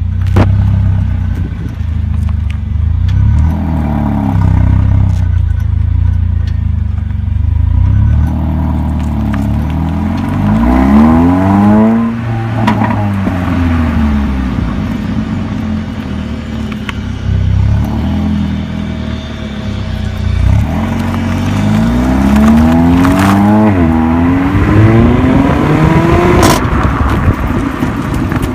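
Mercedes-Benz CLA45 AMG's turbocharged four-cylinder engine with a steady low rumble, revved twice, each time rising in pitch and then dropping back.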